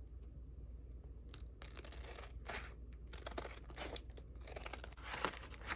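Paper being cut and handled: irregular crinkling and rustling strokes, sparse at first and busier from about a second in.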